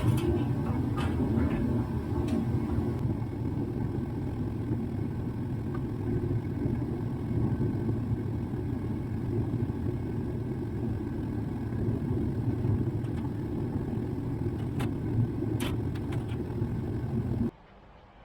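Steady low rumbling noise with a few light clicks, cutting off suddenly near the end.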